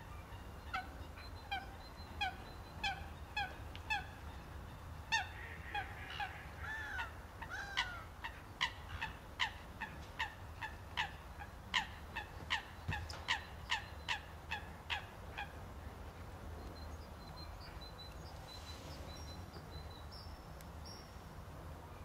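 A bird calling: a long run of short, evenly repeated calls, about two a second, that stops about fifteen seconds in. Faint high chirps follow near the end.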